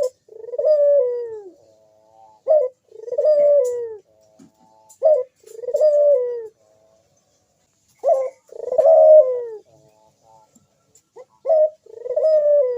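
Crossbred puter (ringneck dove) cooing repeatedly, about five calls a couple of seconds apart, each a short note followed by a longer falling coo.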